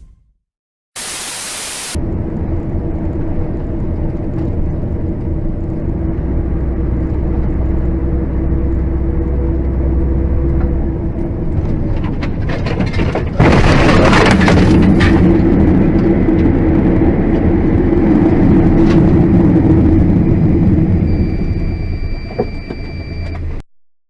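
Car driving with steady engine and road noise, then about halfway through a sudden loud crash, followed by several seconds of loud, rough noise. A steady high tone sounds briefly near the end.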